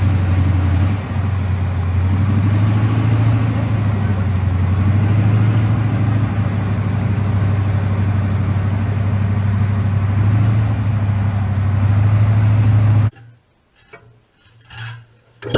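Heavy vehicle engine running steadily with a deep, even drone, cut off abruptly about two seconds before the end; a few faint clicks and knocks follow.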